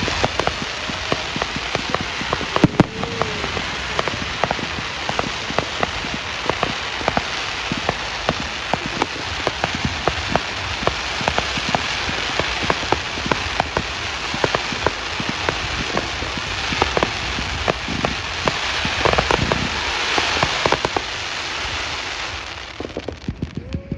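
Fireworks display: a continuous, rain-like crackle of countless tiny pops from crackling fireworks, dying away near the end.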